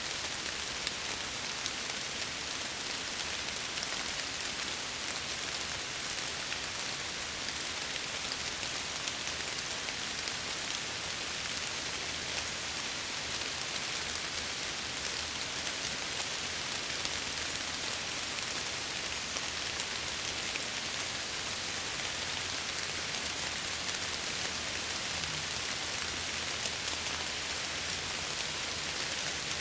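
Steady rain pattering against window glass, a dense even hiss dotted with small drop ticks.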